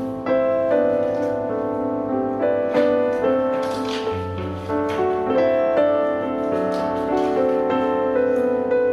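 Background piano music: a gentle, steady melody of single notes over held chords.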